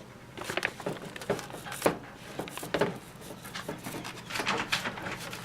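Irregular light clicks and knocks, a few a second, as objects are handled on a hard work surface.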